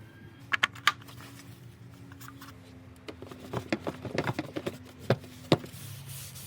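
Light, sharp clicks and taps: a few about half a second in, then a quicker, irregular run in the middle. Under them is a faint steady hum that drops slightly in pitch about two seconds in.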